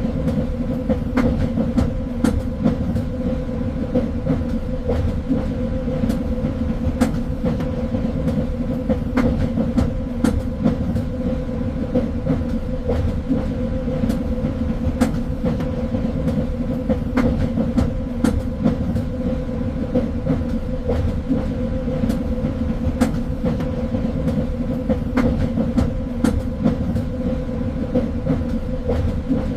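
Passenger train running along the rails: a steady low rumble with a constant hum, broken by irregular sharp clicks and knocks from the wheels on the track.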